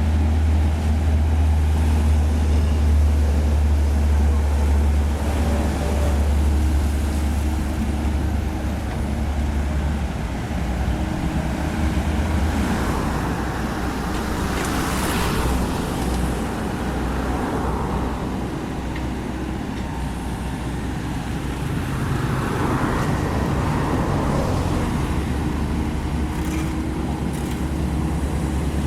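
Diesel engine of a Komatsu PC78US mini excavator running steadily under working load, with a deep, constant drone. Short rushes of noise come through it partway through and again later.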